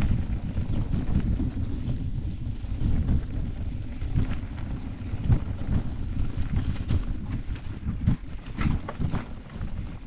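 Wind buffeting the microphone of a camera riding along on a mountain bike, a gusty low rumble. In the second half, a run of sharp clicks and rattles from the bike going over rough ground.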